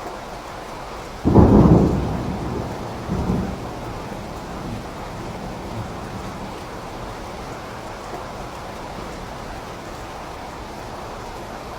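Steady rain, with a sudden loud thunderclap just over a second in that rumbles away over the next couple of seconds, followed by a smaller second crack.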